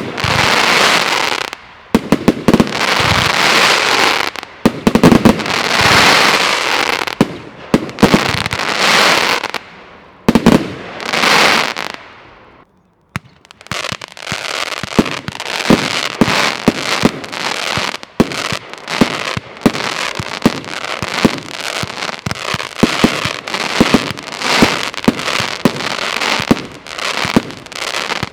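Nordlicht Feuerwerk F2 firework batteries firing. For about the first twelve seconds one battery sends up shots with long noisy bursts every couple of seconds. After a brief silence, a second battery fires a rapid string of sharp shots, several a second.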